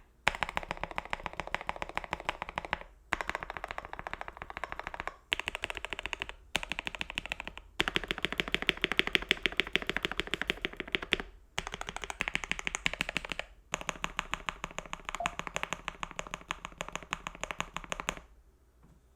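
Fast typing on a KBD67 Lite R2 mechanical keyboard with lubed and filmed Gateron Black Ink v2 linear switches, PE foam and tape mods. Dense runs of keystrokes are broken by short pauses, and the typing stops about eighteen seconds in.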